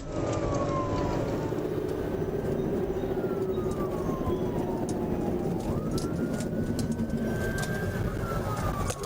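Police siren wailing in slow falling and rising sweeps, over the steady engine and road rumble of a moving vehicle.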